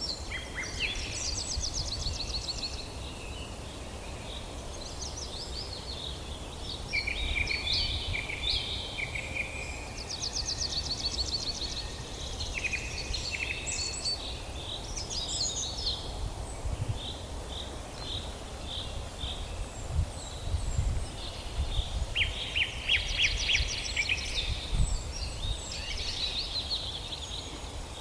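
Several songbirds singing and calling over one another in quick chirps and trills. A steady low rumble sits underneath and swells briefly a few times in the second half.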